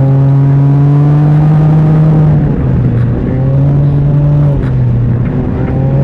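Can-Am Ryker three-wheeler engine running under way, its pitch rising slowly, then easing off about two seconds in and again near four and a half seconds before coming back up.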